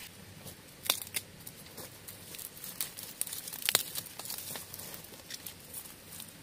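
Bamboo shoots being snapped off by hand amid rustling dry bamboo leaves and sheaths, with a few sharp cracks, the loudest near the middle.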